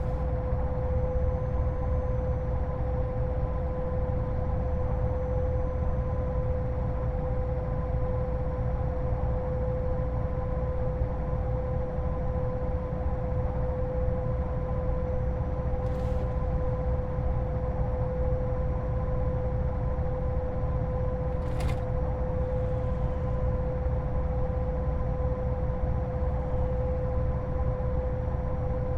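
Scania R730's V8 diesel truck running at a steady cruise, a constant low drone with a steady whine over it. Two short clicks a little past halfway and again a few seconds later.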